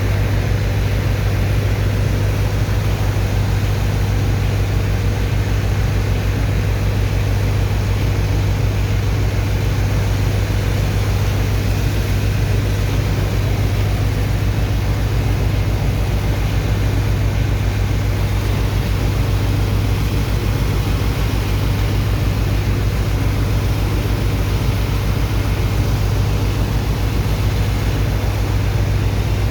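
Heavy diesel engine of a sand dredger's pump running steadily at constant speed: a loud, deep, even drone.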